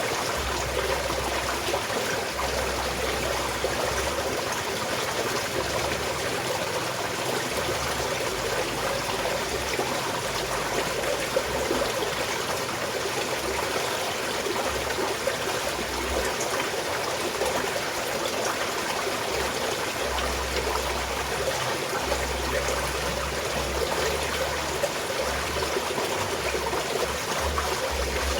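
Small mountain stream flowing steadily, water trickling and splashing over rocks.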